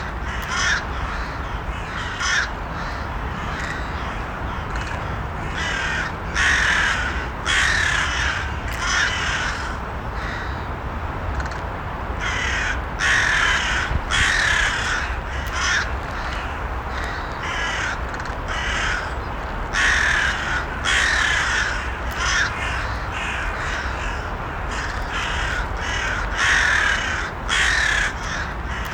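Crows cawing repeatedly, short harsh calls mostly in runs of two to four, over a steady low background rumble.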